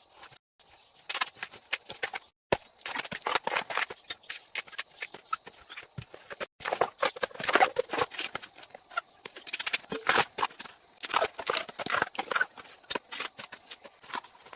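Dense, irregular knocking and tapping of hand-tool work on wood, over a steady high-pitched background drone. The sound cuts out abruptly a few times between edited shots.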